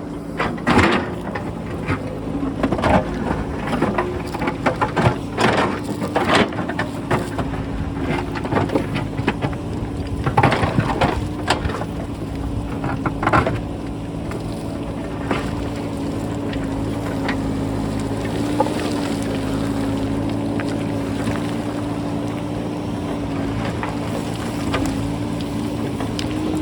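JCB backhoe loader's diesel engine running steadily while rocks clatter and knock against the bucket and roll down the slope; the clattering comes thick and fast in the first half and thins out after about fourteen seconds.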